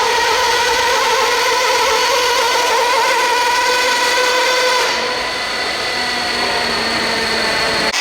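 RC pulling truck or tractor's motor whining at a high, steady pitch under load during a pull, then easing off to a lower tone about five seconds in.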